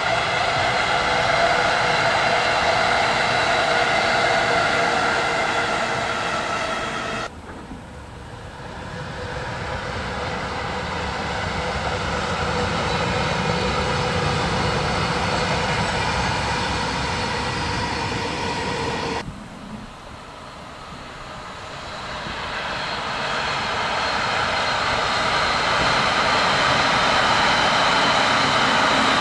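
Passing trains on an electrified line, in three edited takes. First a JR 205-series electric commuter train runs by with its steady motor whine over wheel rumble, cutting off about seven seconds in. Then an EH500 electric locomotive hauling a freight train rumbles past, and about nineteen seconds in another electric commuter train comes in, growing louder with a steady whine.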